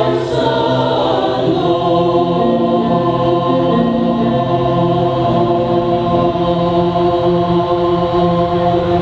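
Mixed choir singing, moving through a few notes and then holding one long chord that stops near the end.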